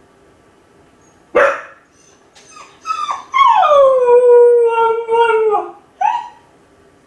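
Kai Ken dog giving one sharp bark, a few short yips, then one long howl sliding down in pitch, and a short yelp near the end. The dog is howling out of loneliness while left home alone.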